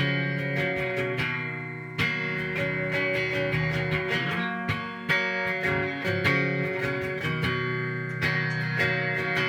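Mexican Fender Telecaster electric guitar played through overdrive and fuzz pedals with chorus and reverb into a Peavey amp and 4x12 cabinet. Chords and notes are struck and left to ring, with a fresh strong strum about every three seconds.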